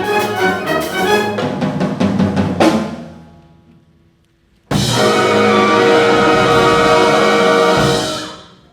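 Concert wind band playing the ending of a piece: a rhythmic passage of brass and percussion closes on an accented hit that rings away, a brief silence, then the full band holds a loud final chord that is cut off near the end.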